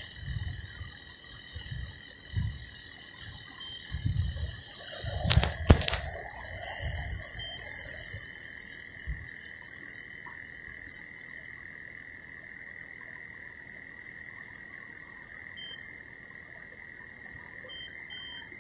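Steady high-pitched chorus of frogs and insects. It is joined by a few low thumps and two sharp knocks close together about five and a half seconds in, then carries on alone.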